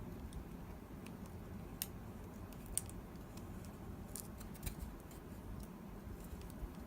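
Scattered light clicks and ticks of small computer parts and cable connectors being handled, a few louder sharp clicks among them.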